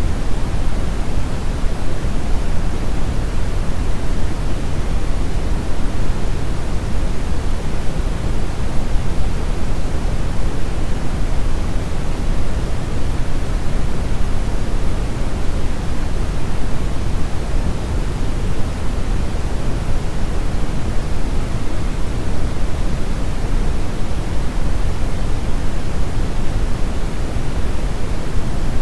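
Steady brown noise: a continuous deep hiss, strongest in the bass and fading towards the treble, with no changes.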